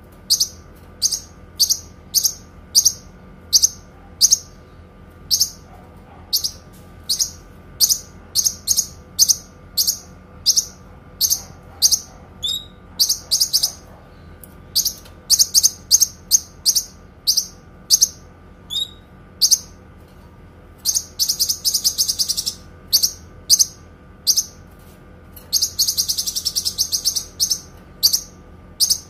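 Kinoi bird singing: short, sharp high chirps repeated about twice a second, broken by two longer rapid trills about 21 and 26 seconds in. This is the bird's long, clear song.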